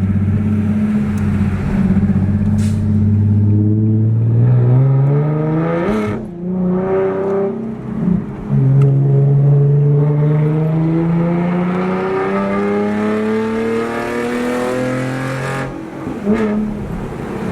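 Nissan 370Z's 3.7-litre V6 with a loud exhaust, accelerating hard: the revs climb with brief breaks for gear changes about six and eight seconds in, then rise slowly in a long pull before dropping off near the end.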